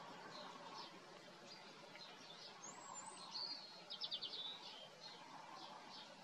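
Small birds chirping faintly over a steady low hiss. About three seconds in, one bird gives a louder short song phrase ending in a quick run of about half a dozen high notes.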